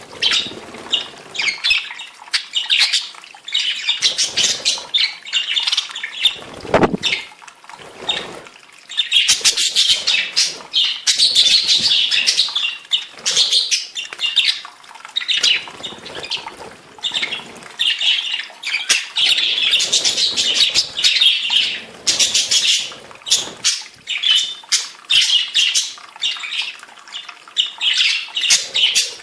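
Budgerigars chattering, with a dense stream of high chirps and warbles and occasional squawks, as in their breeding season. A brief low thump about seven seconds in.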